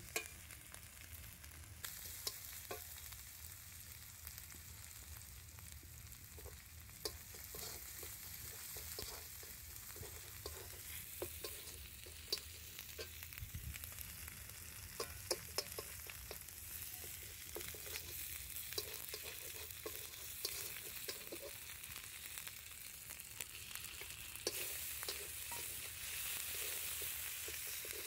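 Food sizzling in hot oil in a metal kadai, with a metal spatula scraping and clicking against the pan as it is stirred. The sizzling grows louder near the end.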